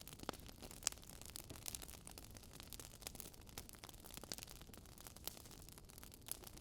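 Wood fire crackling in a fireplace: irregular sharp pops and snaps over a low, steady rumble of burning logs, the sharpest pop just under a second in.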